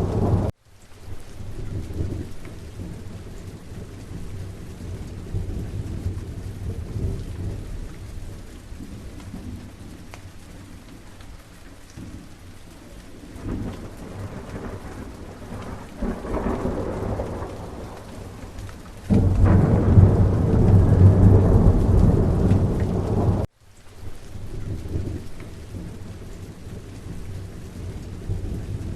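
Steady rain falling with rolling thunder. The thunder swells several times, loudest in a long deep rumble about two-thirds of the way through that cuts off suddenly.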